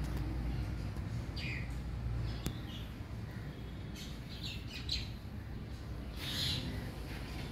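Birds chirping in short, scattered calls over a low background rumble.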